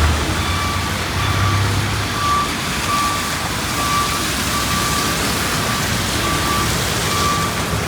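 A vehicle's reversing alarm beeping steadily, one short beep about every two-thirds of a second, over a constant hiss of heavy rain and street traffic.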